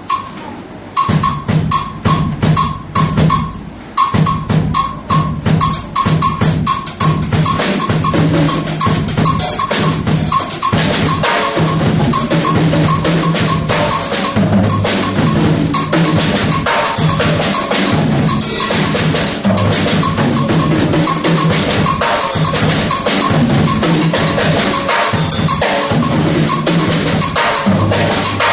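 Drum kit played solo in a Latin groove built on the rumba clave, with a repeating high knock carrying the clave pattern over kick and snare. It starts sparse with gaps and becomes continuous after several seconds.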